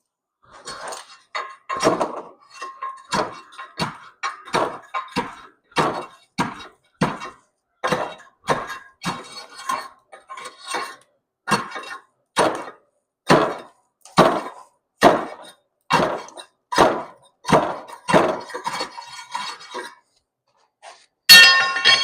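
Hammer blows on metal exhaust pipework, a steady run of short, dull knocks at about one or two strikes a second. Near the end comes one much louder strike that rings out in a metallic clang.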